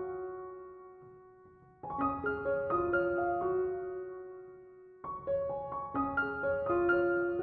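Soft, slow keyboard music with a piano-like tone. Short phrases of single notes each ring on and fade away; a new phrase begins about two seconds in and again about five seconds in.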